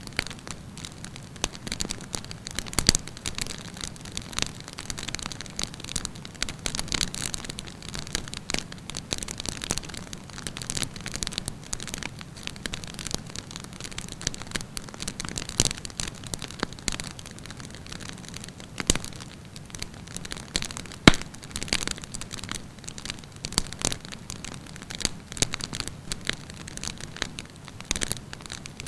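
Wood campfire burning, with steady crackling and frequent irregular sharp pops, a few louder snaps standing out.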